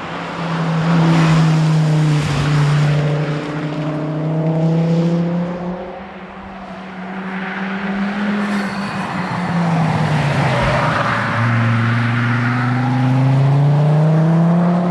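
Volvo 850R's turbocharged five-cylinder engine under hard driving, its pitch rising and falling through the rev range. The pitch sags around six seconds in, then climbs steadily from about eleven seconds.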